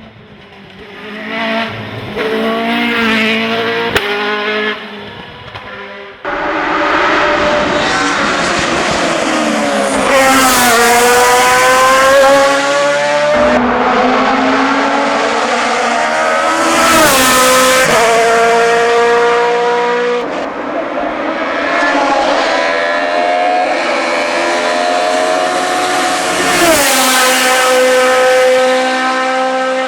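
Racing car engines at full throttle: the engine note climbs steeply, then drops sharply at gear changes or braking. The sound comes in several short passes that cut abruptly from one to the next, the first few seconds quieter than the rest.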